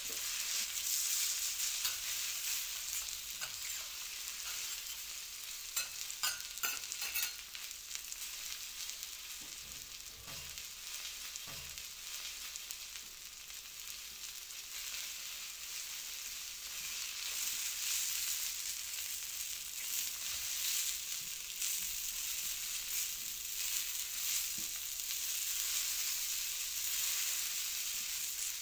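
Food frying on a hot teppanyaki griddle, a steady hissing sizzle, with a few sharp clicks about six to seven seconds in.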